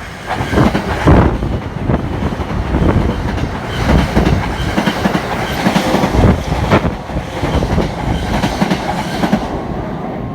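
A train passing close by, its wheels clacking over rail joints in a dense, uneven run of beats. The sound comes up sharply at the start.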